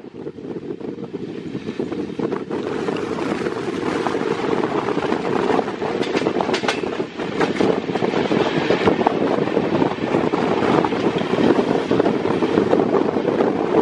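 Passenger train coach running on the rails: a steady rushing noise of wheels and wind buffeting the microphone, growing louder over the first few seconds. A few sharp clacks come around the middle.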